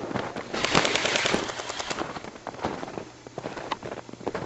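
Airsoft rifles firing: a rapid burst of shots for about the first two seconds, then scattered shorter bursts and single shots.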